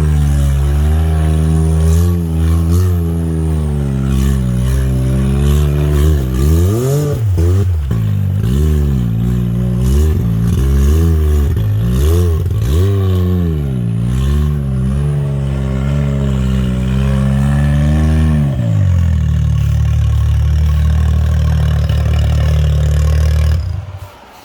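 Can-Am Maverick X3's turbocharged three-cylinder engine revving up and down over and over as the machine works over rough ground, with scattered clattering knocks. It then runs steady and lower for a few seconds before the sound drops away suddenly near the end.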